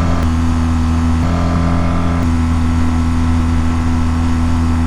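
BMW GS boxer-twin motorcycle engine held steady at about 5,000 rpm in first gear at low road speed, a constant high-revving note with road and wind noise.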